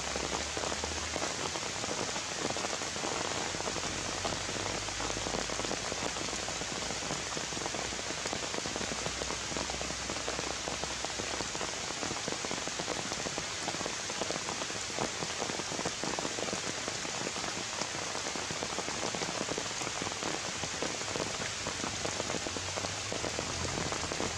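Steady rain falling on leaves and undergrowth, a dense even hiss with no break.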